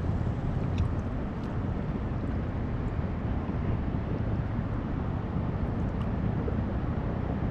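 Wind buffeting the microphone, a steady low rumbling noise, with a few faint clicks in the first second or two.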